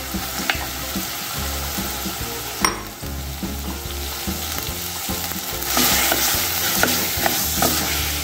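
Diced raw chicken breast sizzling in hot oil on a fried onion, garlic and ají panca base in a metal pot, while a wooden spoon scrapes and stirs it. There is one sharp knock about two and a half seconds in, and the sizzle grows louder about six seconds in.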